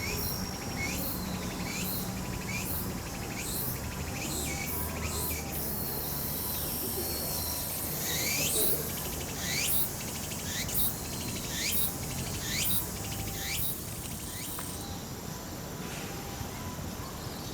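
Laughing kookaburra calling: a long run of short, rising notes, about two a second, loudest in the middle of the run. A steady high hiss runs underneath from about six to fifteen seconds in.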